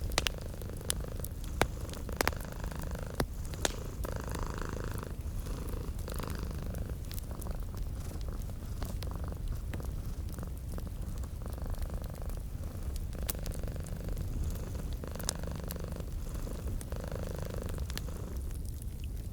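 Domestic cat purring steadily and close up, its low rumble rising and falling with each breath, over the irregular snaps and pops of a crackling wood fire.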